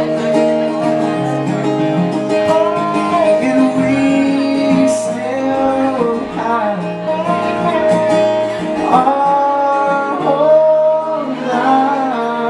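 Live acoustic band performance: acoustic guitar playing under a melodic vocal line that glides between held notes.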